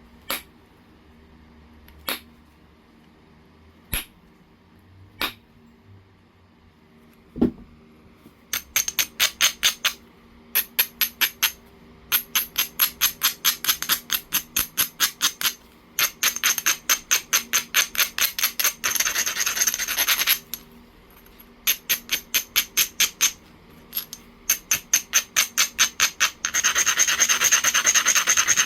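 A few separate sharp clicks of stone on stone, then an abrader scraped rapidly back and forth along the edge of a piece of Oregon jasper, about eight strokes a second in runs of one to four seconds. The last run, near the end, is the loudest and most continuous. This is edge abrading that prepares platforms for flaking.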